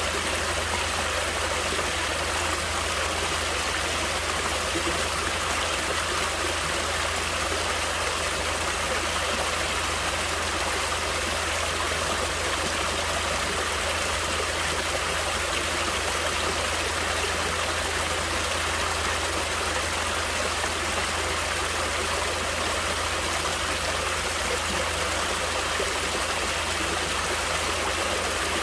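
Natural running water flowing steadily, an even rushing sound that does not change.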